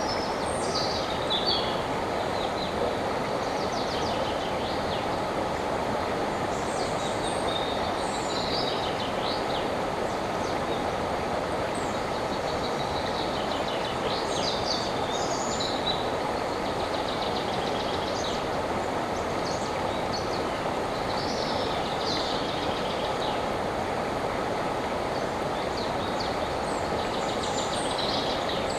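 River water flowing in a steady rush, with birds singing short chirping phrases on and off above it.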